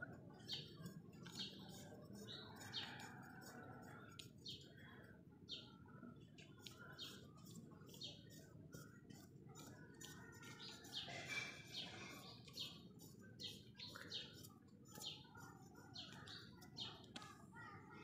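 Small birds chirping repeatedly: short high chirps about once or twice a second over a faint background hiss.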